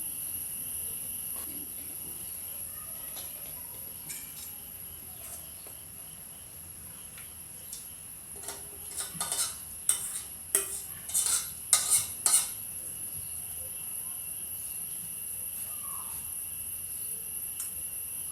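A spoon clinking and scraping against a cooking pan as the noodles are served onto a plate: a quick run of clinks about halfway through, lasting around four seconds. A steady high-pitched whine sits underneath throughout.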